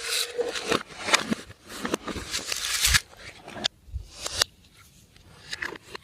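Slime being squished and worked by hand, making sticky crackling and clicking sounds in bursts that thin out about two-thirds of the way through.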